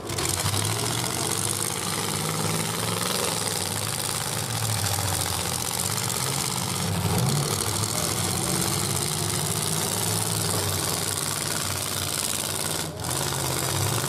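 Several 1980s full-size demolition derby cars' engines running together, their pitch rising and falling as the drivers rev them while pushing and ramming in the arena, under a steady wash of noise.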